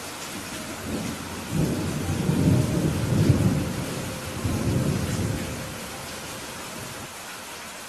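Steady rain hiss with a low rumble of thunder that builds about a second in and fades away over the next five seconds.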